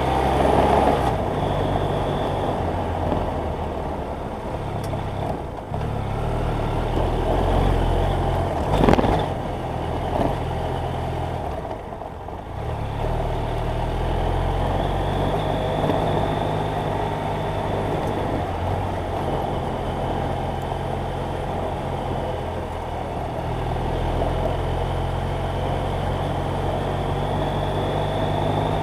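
BMW F800GS Adventure's parallel-twin engine running under way over a steady rush of noise, its pitch stepping up and down several times with throttle and gear changes. A single sharp knock about nine seconds in.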